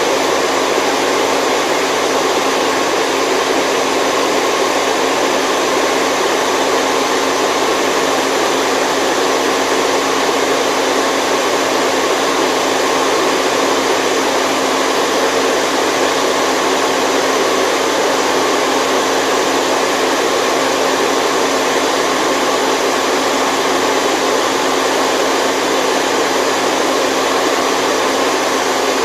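Steady white noise played for a baby's sleep: an even, unbroken hiss, heaviest in the middle range, with almost no deep bass.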